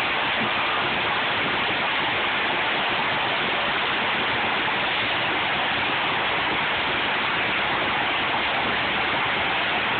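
A steady, unbroken rushing noise, like water pouring out in a heavy stream.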